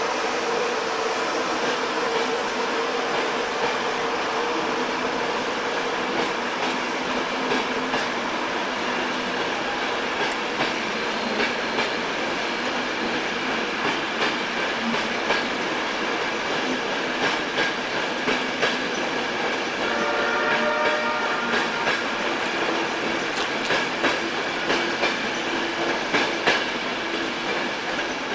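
Class 91-hauled InterCity 225 express train arriving slowly into the platform, its wheels clicking over rail joints more and more often as it draws in. A brief high tone sounds about twenty seconds in.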